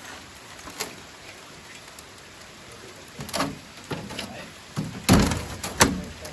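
A few knocks and clunks of metal parts being handled, the loudest cluster about five seconds in, over a steady background hiss.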